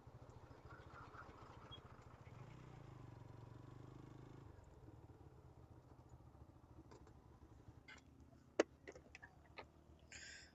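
A single-cylinder motorcycle engine, a TVS Apache RTR 160 4V, idling faintly with an even low pulse, easing off a little about halfway through. A few sharp clicks come near the end, one louder than the rest.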